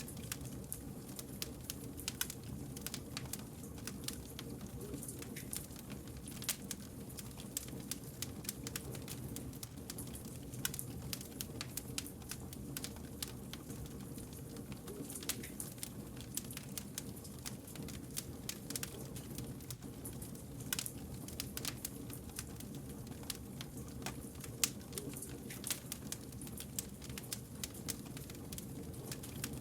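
Wood fire crackling: frequent sharp snaps and pops over a steady low rumble of burning logs.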